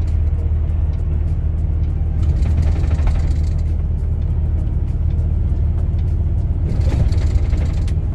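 Steady low drone of a truck driving at road speed, heard from inside the cab: engine hum and road noise. Two brief swells of louder noise come a few seconds apart.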